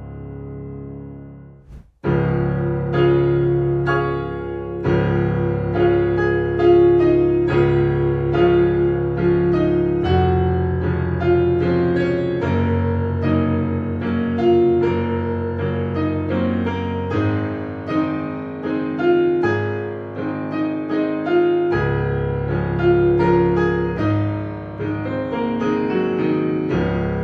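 Korg C1 Air digital piano playing a grand piano passage, with a short break about two seconds in where the playing stops and starts again.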